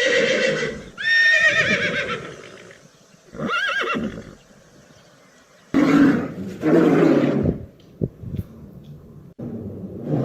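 A series of loud animal calls with pauses between: the first few high and wavering, the later ones lower and rougher.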